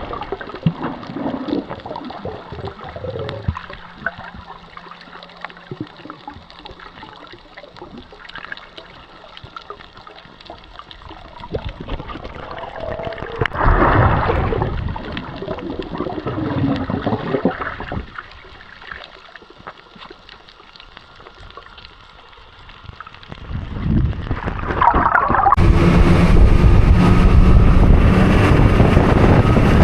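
Water sloshing and gurgling, with louder splashing surges about 14 and 25 seconds in. Near the end a loud, steady rushing noise suddenly takes over.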